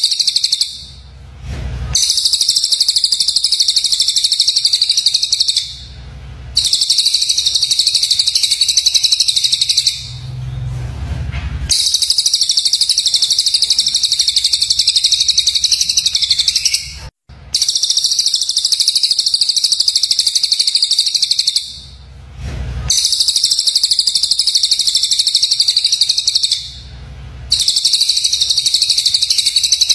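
Recorded songbird song of cucak jenggot (grey-cheeked bulbul) and cililin used as masteran for training magpie-robins: long, harsh, high-pitched rapid-fire phrases of four to five seconds each, broken by short pauses.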